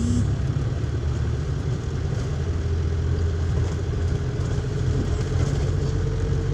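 Car running with a steady low engine and road rumble, with a faint steady hum above it.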